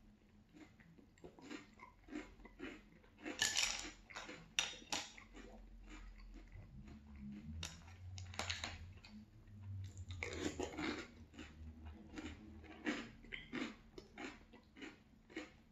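Close-up chewing of crunchy French Toast Crunch cereal squares in milk: a run of crisp crunches, a few a second, with louder bursts of crunching at intervals as fresh spoonfuls are bitten.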